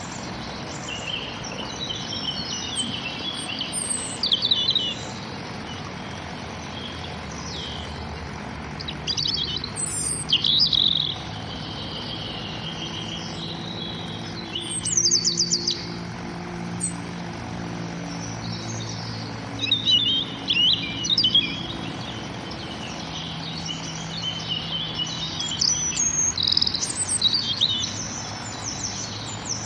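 Several small birds chirping and trilling in short bouts of quick, high notes, with gaps between them, over a steady low background hum.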